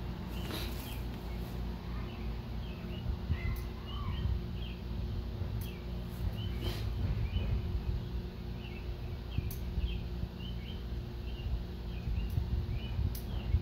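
Small birds chirping repeatedly over a steady low outdoor rumble, with a few sharp clicks scattered through.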